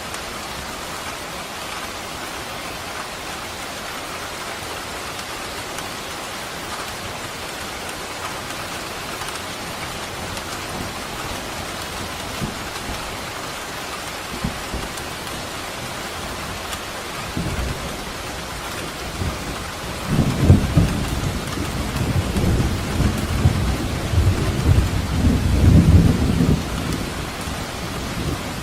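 Steady rain falling, with thunder rumbling low and long from about two-thirds of the way in, after a brief first rumble a few seconds earlier.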